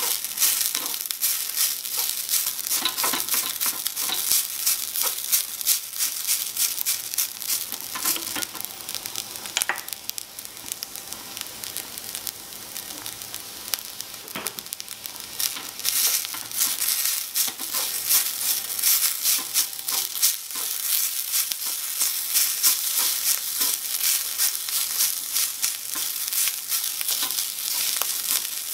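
Rice frying in a miniature aluminium wok, sizzling, while a wooden spatula stirs and scrapes it with many small clicks against the pan. The sizzle softens for a few seconds in the middle, then picks up again.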